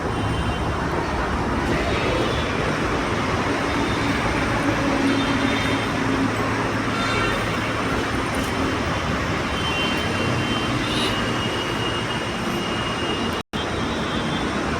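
Steady road traffic noise from passing vehicles, broken by a brief dropout about 13 seconds in.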